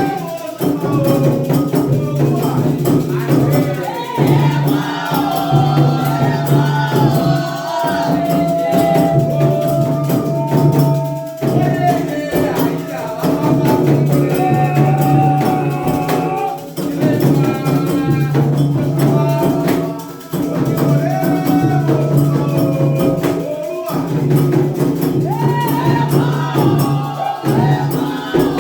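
Candomblé ritual music: voices singing a chant over steady hand percussion with shaken rattles.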